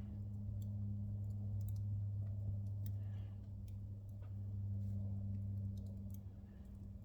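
Fire crackling in a fireplace as New Year pine decorations burn: scattered, irregular sharp pops and ticks over a steady low hum.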